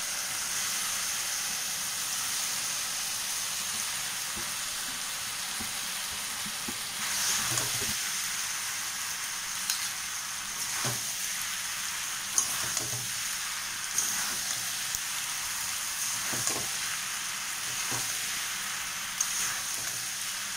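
Pasta and noodles sizzling in a hot metal wok, a steady frying hiss, while a metal spatula stirs and tosses them. From a few seconds in, the spatula scrapes and knocks against the pan every second or two.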